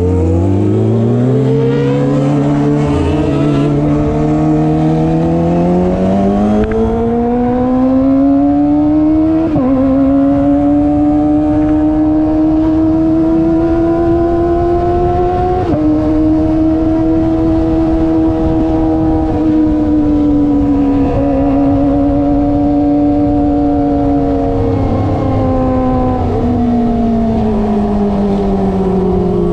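Kawasaki ZX25R's inline-four engine through an SC Project aftermarket exhaust, pulling under way with its note climbing steadily for about ten seconds. It holds fairly steady with two small steps in pitch, then drops away near the end as the bike slows.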